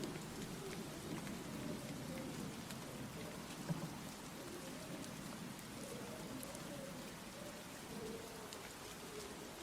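Steady rain falling and pattering on surfaces. A low thunder rumble dies away over the first few seconds, and there is a single sharp tap a little under four seconds in.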